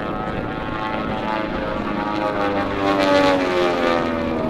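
Airplane flying past, its engine note sliding down in pitch as it passes, loudest about three seconds in.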